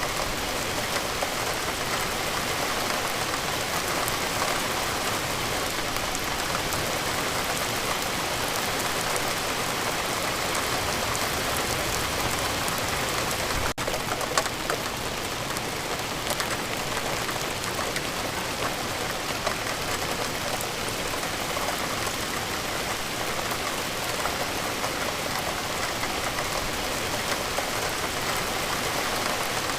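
Steady rain falling, an even hiss flecked with the small ticks of single drops, with a brief dropout about halfway through.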